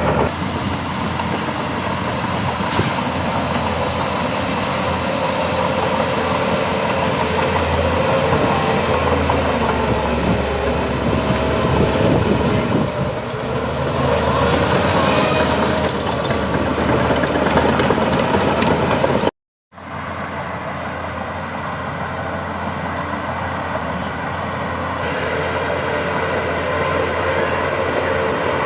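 Heavy diesel earthmoving machinery running steadily at a construction site, with a brief complete dropout about two-thirds of the way through before the machine noise resumes.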